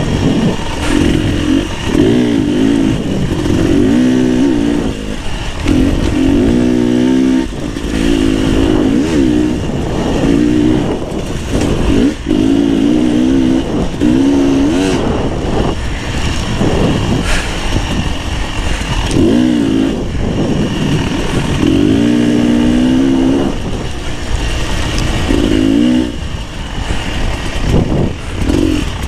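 Beta 300 RR two-stroke enduro motorcycle engine running under load, its pitch rising and falling over and over as the throttle is worked on and off along a trail.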